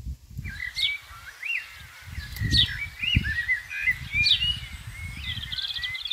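A songbird singing a quick, varied warbling song with sharp upward-sweeping whistled notes, starting about half a second in. Uneven low rumbling bumps on the microphone sound under it.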